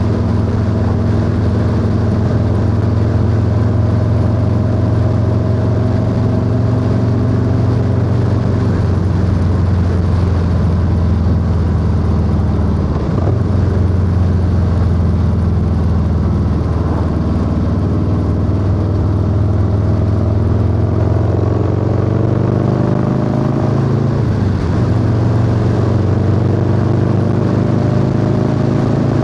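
Harley-Davidson Low Rider S V-twin with a 2-into-1 exhaust, heard from the rider's seat while cruising under steady throttle, with wind rush. The engine note dips briefly about thirteen seconds in and again about twenty-four seconds in, then climbs again as speed builds.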